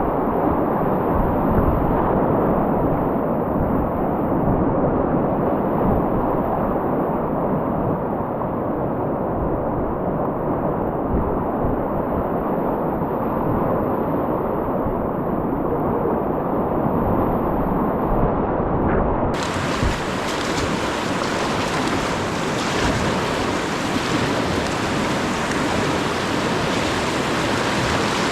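Steady rush of white-water river rapids, muffled at first, then suddenly much brighter and clearer about two-thirds of the way through.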